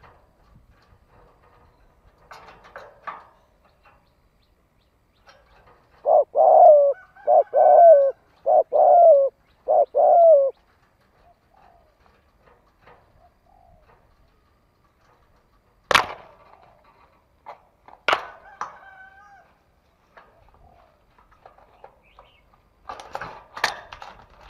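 Spotted dove singing its crowing call: one phrase of about five low cooing notes in quick succession, each sliding down in pitch. Later come two sharp clicks and a short rustling burst near the end.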